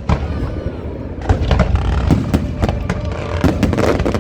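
Fireworks going off in quick succession: a dense string of bangs and booms over a constant low rumble, getting louder about a second in.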